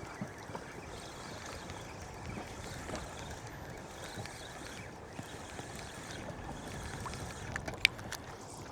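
Water lapping and sloshing against a drifting small boat's hull, with wind. A few faint clicks come near the end, the loudest a single sharp click.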